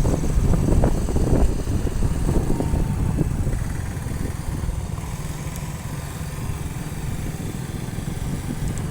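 Motorcycle running while being ridden, a steady low rumble of engine and wind on the microphone that eases a little about three and a half seconds in.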